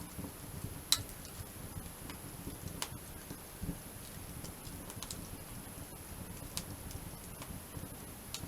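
Wood campfire crackling: a few sharp, scattered pops, the loudest about a second in, over a low steady rumble.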